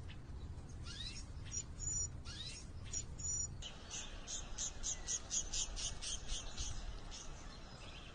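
Songbirds calling: two rising whistled calls with short high paired notes in the first few seconds, then a fast run of high chirps, about five a second, for roughly three seconds, over a low steady background rumble.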